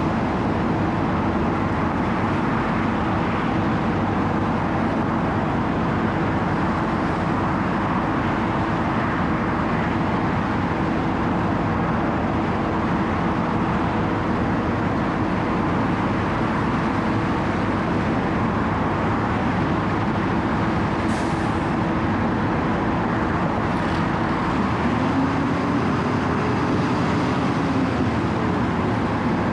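Diesel engine of a Wirtgen W 120 CFi 4-foot cold milling machine running steadily at a standstill, with a constant hum. About 25 seconds in a tone swells and fades over a few seconds.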